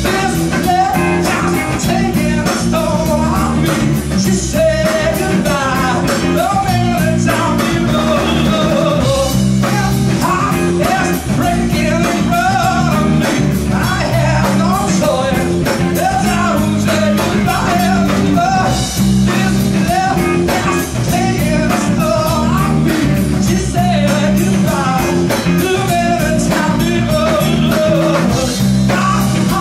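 Live rock band playing: a bending electric lead-guitar melody over bass guitar and a steady drum-kit beat.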